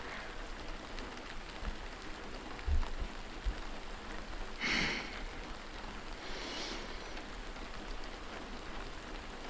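Steady heavy rain falling on a surface. A few soft low bumps come about three seconds in, and a brief soft rush of noise near the middle.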